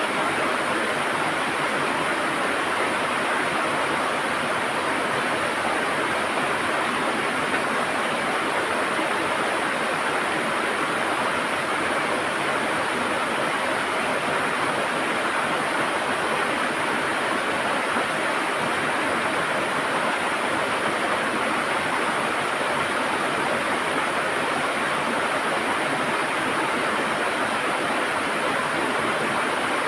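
River water running and gurgling over rocks: a steady, even rush with no breaks.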